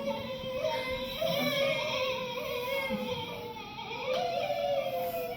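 Female voices singing long held tones that slowly glide downward and overlap; a second voice enters a little higher about four seconds in.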